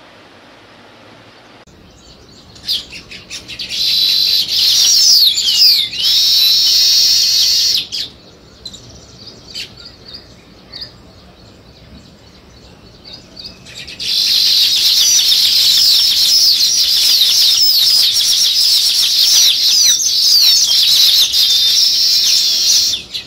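A flock of small birds chirping. A dense chatter of high chirps builds after a couple of seconds, thins to scattered chirps, then returns as steady, thick chirping for the last third.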